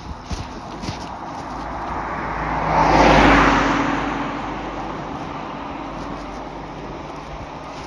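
A car passes by on the road, its tyre and engine noise swelling to a peak about three seconds in and then fading away.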